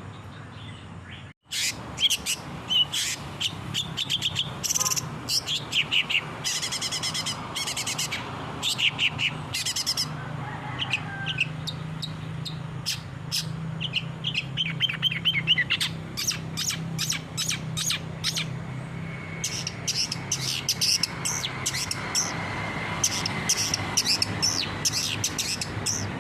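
Long-tailed shrike (cendet) singing a fast, varied run of chirps and rapid trills. The sound cuts out briefly about a second and a half in, then the song resumes.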